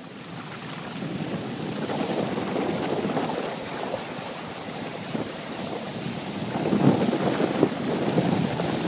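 Strong gusting wind buffeting the microphone over the rush of wind-driven lake waves, with the gusts surging harder about two-thirds of the way in.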